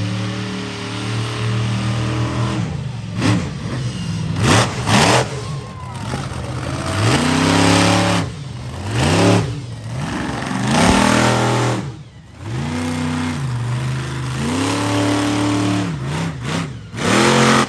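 Monster truck engine revving hard, its pitch climbing and falling again and again as the truck is driven through a freestyle run. Several short, loud bursts of noise cut through the engine.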